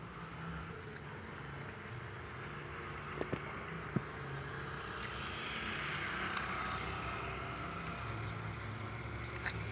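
A truck's engine running steadily, a low hum with a hiss that swells in the middle, and two or three sharp clicks about three and four seconds in.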